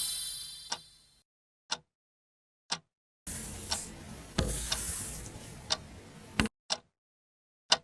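Sharp ticks about once a second, like a clock, with a stretch of hissing noise and a few knocks in the middle. A ringing tone fades out over the first second.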